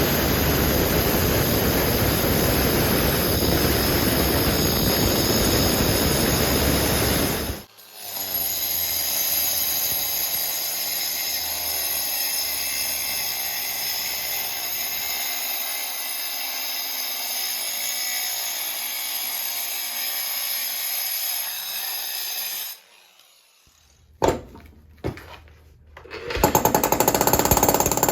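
Electric demolition hammer chipping concrete, a dense rapid hammering, as concrete is broken out to dig down to a buried water supply pipe. It stops abruptly a few seconds in and a quieter steady noise follows. After a short lull with a few sharp knocks, the hammering starts again near the end.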